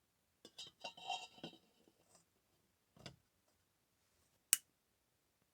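Light metallic clinks and rattles from handling the Trangia storm cooker's metal parts, then a soft knock and a single sharp click about four and a half seconds in.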